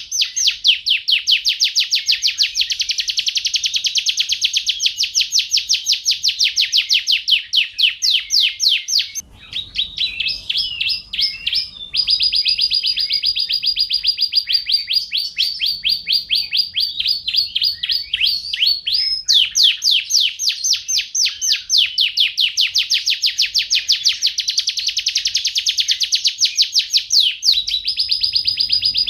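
Domestic canary singing continuously in rolling trills of fast, repeated high notes. About a third of the way in there is a short stretch of mixed, broken notes, then a long, very fast trill held on one pitch, before the rolling trills resume.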